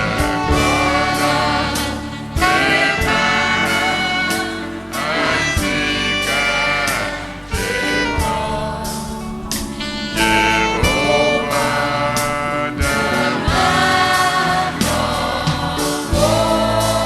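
Gospel worship music: a choir singing over a backing band, with a drum beat running through it.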